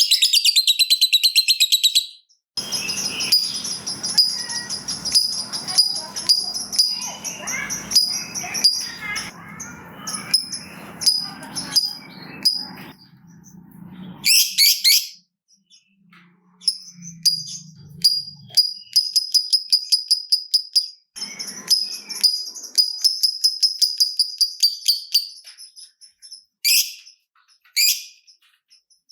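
Lovebird chattering in fast runs of sharp, high chirps, some runs lasting several seconds, broken by short pauses. A lower, rougher sound runs under the chirps for about the first half.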